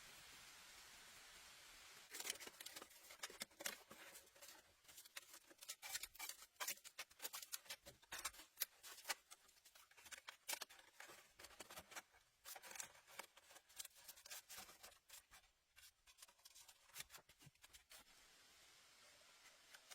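Quiet, quick, irregular crisp clicks and snips, crowded together from about two seconds in and thinning out near the end.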